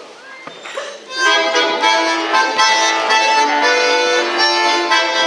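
Accordion playing an instrumental introduction in sustained chords and melody, coming in loudly about a second in after a quiet start.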